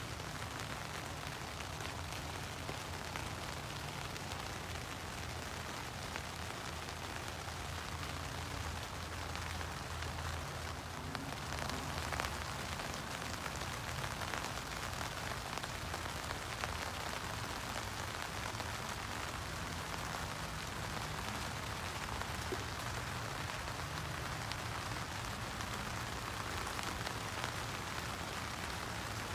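Steady rain falling on the Luxe Twinpeak tent's fabric, heard from inside the tent as an even patter.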